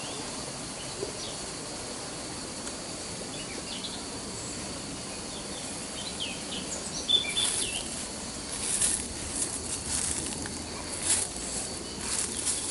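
Outdoor nature ambience: a steady high-pitched insect drone, with birds chirping in short calls from about halfway, and a run of brief rustling noises near the end.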